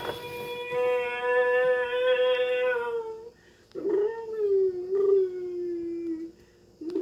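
A dog howling: one long, steady howl lasting about three seconds, then a second howl that slides down in pitch, and a third beginning near the end.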